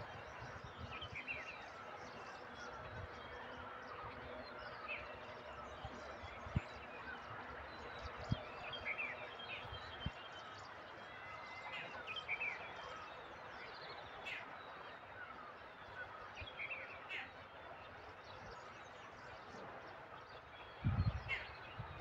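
Small birds chirping in short, scattered calls over steady outdoor background noise, with a brief low rumble on the microphone near the end.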